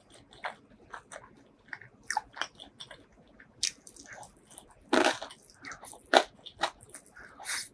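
Close-miked eating: chewing clicks, with loud crunches from biting into crispy fried chicken about five, six and seven and a half seconds in.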